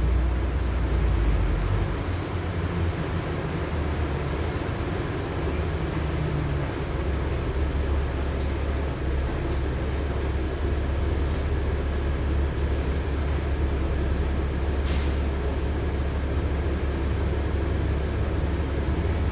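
Inside a LiAZ-6213.65 articulated city bus under way: steady low engine and road rumble in the cabin, with four short, faint high clicks in the middle of the stretch.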